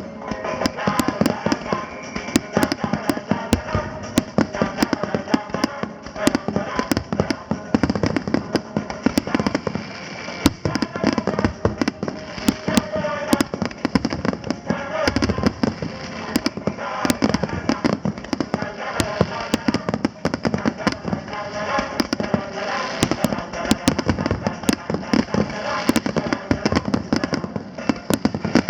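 Fireworks show in full swing: a dense, irregular run of bangs and crackles with barely a gap. Music plays underneath.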